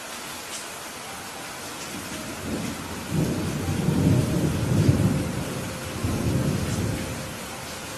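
Steady heavy rain with a roll of thunder that builds about a third of the way in, rumbles loudest in the middle and fades away near the end.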